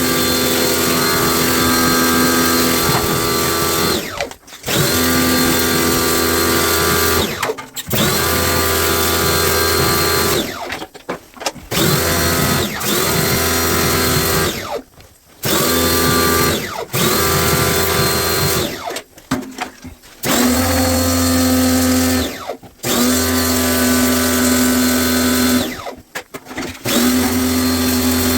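Cordless electric drill-driver running in about ten short runs with brief pauses between them, each spinning up with a rising whine: screws being worked on a top-loading washing machine.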